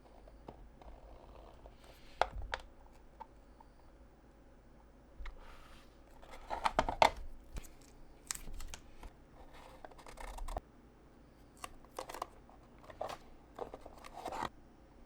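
Scissors snipping in an irregular string of short cuts, with light rustling of the material being cut.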